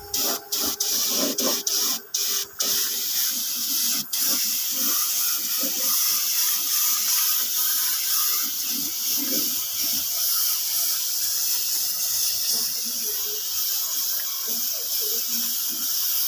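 Compressed-air paint spray gun hissing steadily, cutting out briefly several times in the first few seconds.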